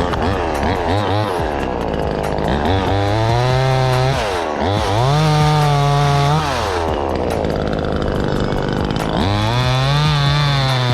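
Chainsaw revving up to full throttle four times, holding there briefly and dropping back to idle between, as it cuts limbs from a black maple.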